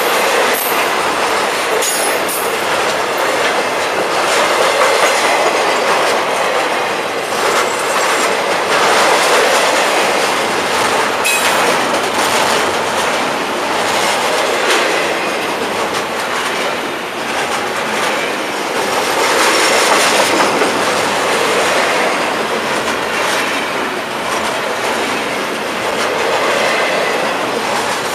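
Double-stacked intermodal freight cars rolling past at speed: a steady, loud rumble and rattle of steel wheels on the rails, with a few sharp clicks as the wheels cross the rail joints.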